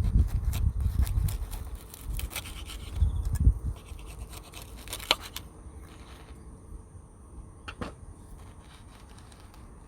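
Scratching and rubbing sounds with a few sharp clicks, dying down to a quieter stretch about halfway through.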